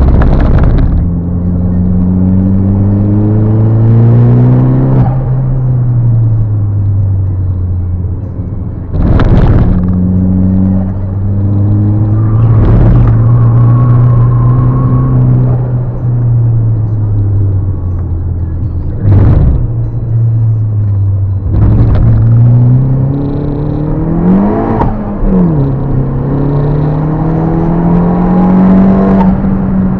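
Turbocharged Fiat Panda engine with a big TD04 turbo, driven hard: the revs climb under acceleration, drop back and climb again several times, with one quick rev spike and fall about two-thirds of the way in. Short, loud rushing bursts cut in about half a dozen times.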